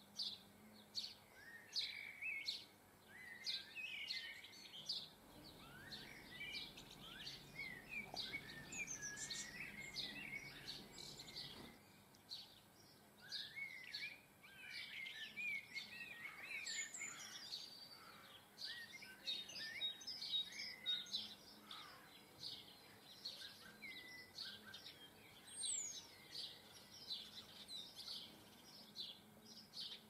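Garden birds chirping and singing: a steady run of short high chirps with twittering song phrases among them, over faint background noise.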